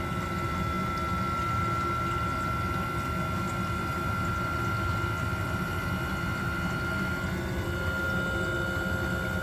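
Diesel-fired coolant heater running as it ramps up: a steady low rumble with a thin fan whine that rises slightly in pitch, stepping up once about two thirds of the way through, over the sound of coolant being pumped through the lines.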